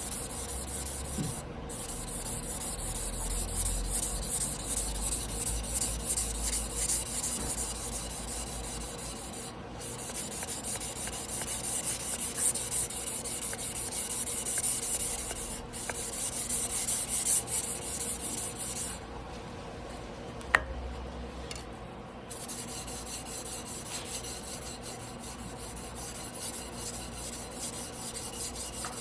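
Tojiro Damascus carbon-steel yanagiba being hand-sharpened on a whetstone: a steady scraping rasp of the blade stroked back and forth over the stone, with a few brief breaks. It goes quieter about two-thirds of the way through, with a single sharp click.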